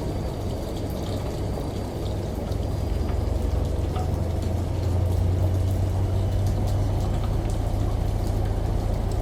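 Washing machine running: water sloshing and pouring inside the drum over a steady low motor hum, which grows louder about three seconds in.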